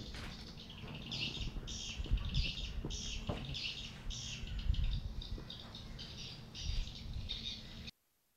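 Birds chirping in many short, quick bursts over a low rumble, with a few light knocks; the sound cuts off suddenly near the end.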